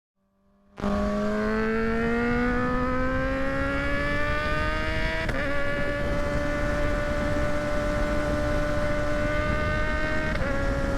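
Kawasaki ZX-6R's inline-four engine under way, its pitch rising steadily as it accelerates, then an upshift about five seconds in, after which it holds a steady pitch, with another shift near the end. A steady rush of wind noise runs underneath.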